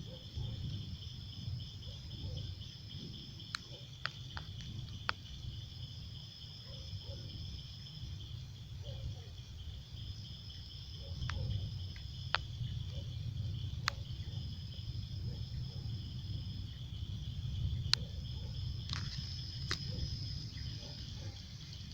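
Insects trilling: one steady high trill, with a second, higher trill that sounds for two or three seconds and pauses for about two, over and over. Underneath is a low rumbling background, with a few sharp clicks.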